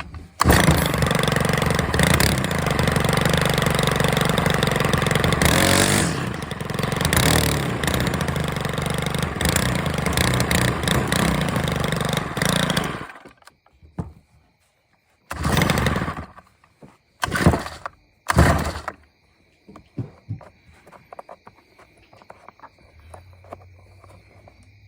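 Stihl FS91R string trimmer's small 4-MIX engine fires on the pull start and runs for about twelve seconds, then stops. Three short bursts of engine sound follow a few seconds later.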